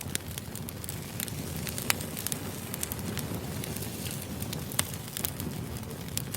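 Wood fire burning: a steady low rumble of flames with irregular sharp crackles and pops from the burning logs, two pops louder than the rest.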